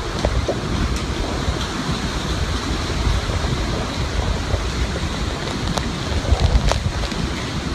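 Hurricane wind blowing hard in gusts, buffeting the microphone, with a continuous rushing noise. A few brief knocks come near the end.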